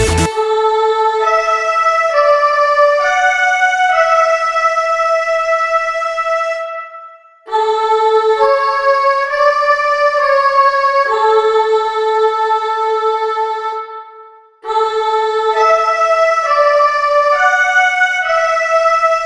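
Electric-piano-like keyboard playing a slow rising arpeggio on its own, with no drums or bass. The phrase is played three times, each one ringing out and fading before it starts again. The full techno beat cuts off just as it begins.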